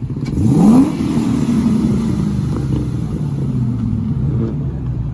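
Car engine revving sharply about half a second in, then held high and slowly easing off.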